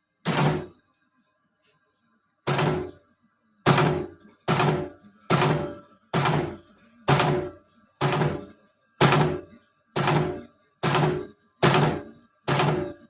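Svit 01337 P2 eyelet punching machine working through repeated strokes, each a heavy thunk dying away over about half a second. One stroke comes at the start; after a pause of about two seconds the strokes follow in a steady rhythm of a little under one a second, about a dozen in all.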